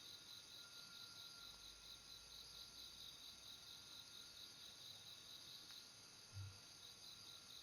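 Faint night insects, crickets, chirping in a quick, even pulse, with one soft low thump about six seconds in.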